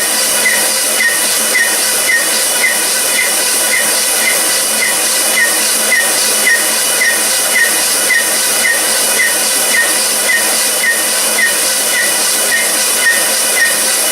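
A machine running steadily with a loud hiss and a short, high chirp that repeats evenly about twice a second.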